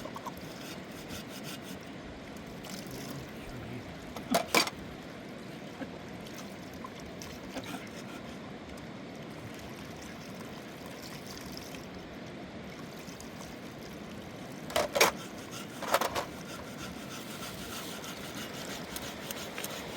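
Steady rush of river water, with a few sharp knocks: two close together about four seconds in, and two more about a second apart near the three-quarter mark.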